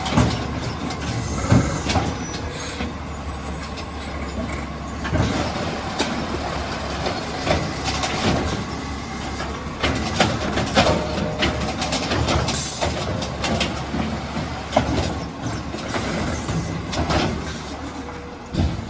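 Crane Carrier LET2 garbage truck with an Amrep side loader running, a steady low rumble under frequent clanks and bangs of metal.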